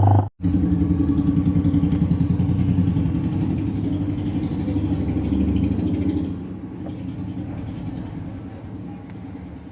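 LG semi-automatic washing machine's motor running with a fast, even rattle. It eases off about six seconds in and keeps turning more quietly.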